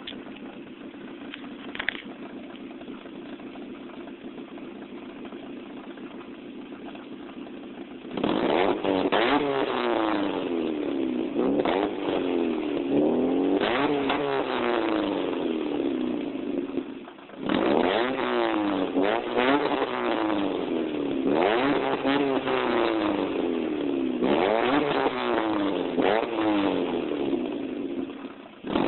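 1993 Saturn SC2's 1.9-litre DOHC four-cylinder breathing through an aftermarket SPL exhaust with an OBX header and high-flow catalytic converter. It idles steadily for about eight seconds, then is revved over and over in quick blips, the pitch climbing and falling each time, with a brief drop back to idle about halfway through.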